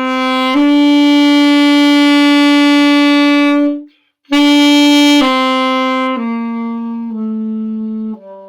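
Saxophone slurring up to a loud held top note, taking a short breath, then slurring back down four notes and getting quieter: the B–A–G–F sharp–E crescendo and diminuendo warm-up.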